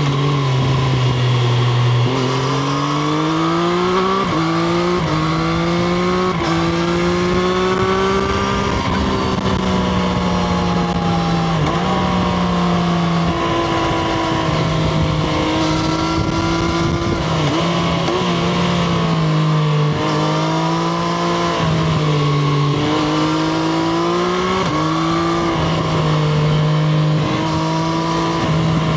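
Triumph Street Triple RS's three-cylinder engine heard from onboard while riding, its pitch rising and falling with the throttle and dropping in steps at several gear changes, over a steady rushing noise.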